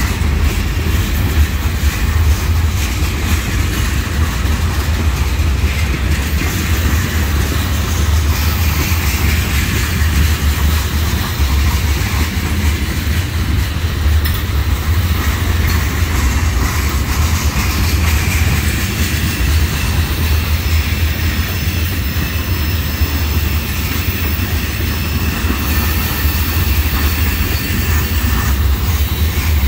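Freight train of tank cars rolling past: a steady rumble and clatter of steel wheels on the rails, with a faint high wheel squeal in the second half.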